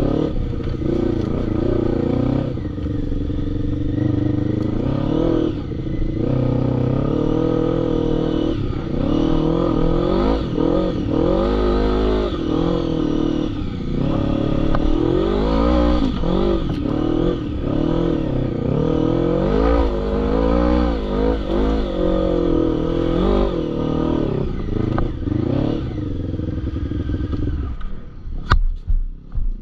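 Quad bike engine revving hard and easing off again and again, its pitch rising and falling with the throttle. About 28 seconds in the engine note drops away and a few sharp knocks are heard.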